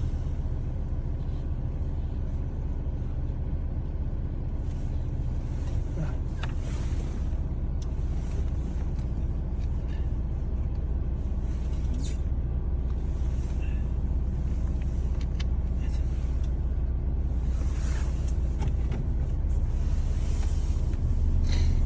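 A steady low rumble of an idling motor vehicle engine, with a few faint clicks and brief rustles on top.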